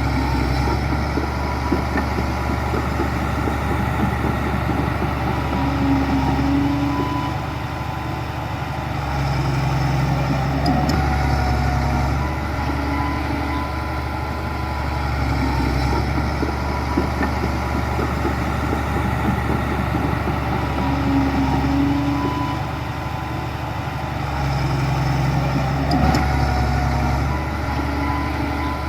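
Heavy diesel engine of earthmoving machinery running continuously, its sound swelling and easing as the load comes and goes in a cycle that repeats about every fifteen seconds.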